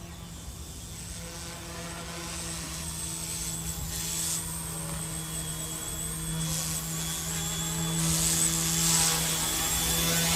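Eachine E190 PRO RC helicopter flying: a steady rotor hum with a thin high electric-motor whine, growing gradually louder.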